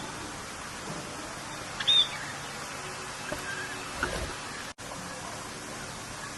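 Steady rain hiss with birds chirping over it: one loud, short arched chirp about two seconds in and a few fainter calls a second or two later. The sound cuts out for a split second near the three-quarter mark.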